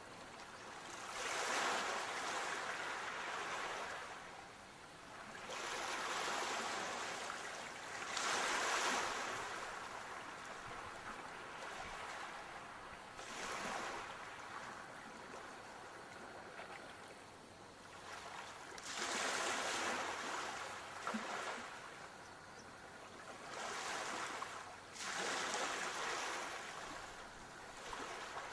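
Sea waves washing in, a surge of rushing water every few seconds that eases off between surges.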